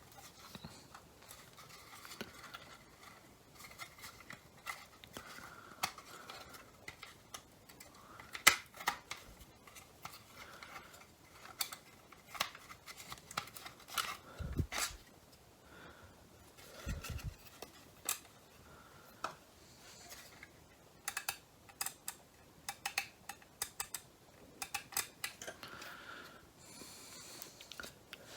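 Scattered small clicks and taps of hands handling and working at the plastic housing of a Mercedes W204 rotary headlight switch, with a couple of dull low thuds midway.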